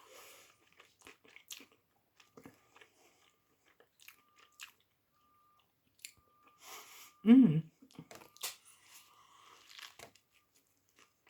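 Close-up chewing of a mouthful of toasted sub sandwich: soft crunching and wet mouth clicks. About seven seconds in there is one short voiced sound, like a brief hum.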